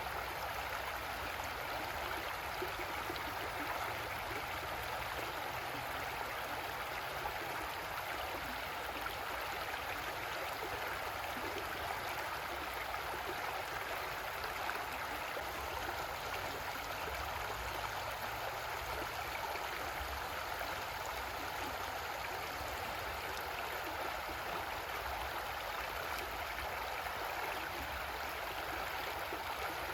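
A creek's water flowing and burbling over rocks, a steady rushing with no breaks.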